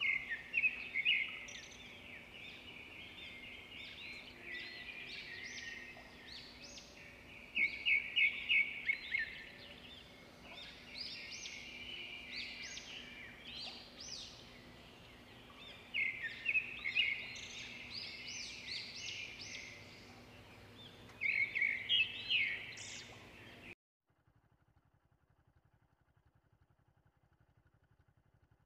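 Wild birds chirping and calling in repeated bursts of short, high phrases, loudest in a few clusters. The sound cuts off abruptly about 24 seconds in, leaving almost nothing.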